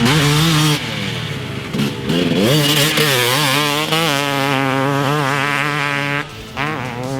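A 2019 TM250 two-stroke dirt bike engine, fitted with a Pro Circuit pipe and silencer, revving hard under riding. The pitch climbs and holds with a warble, then drops briefly about six seconds in and climbs again.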